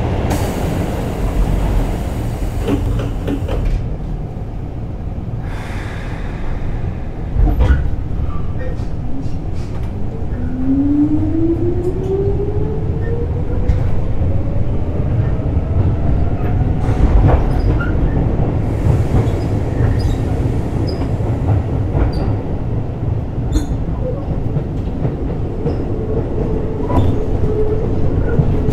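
Running noise heard inside a Keisei 3600-series commuter train: a steady low rumble of wheels on rail, with a sharp knock a little before eight seconds in. From about ten seconds in, a traction-motor whine rises steadily in pitch as the train accelerates, then fades into a steady hum with scattered clicks of the wheels over rail joints.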